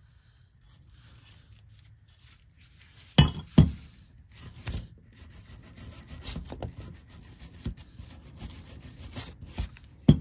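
Two sharp metallic clinks about three seconds in, then irregular scraping and rubbing as old pipe dope is cleaned off the threads of a gas pipe fitting.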